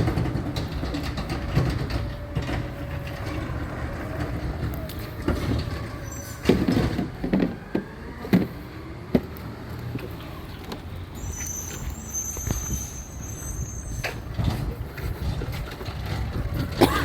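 Garbage truck engine running with a steady low rumble, broken by a cluster of loud clanks a little before the middle and a high-pitched squeal shortly after it, with one more sharp clank near the end.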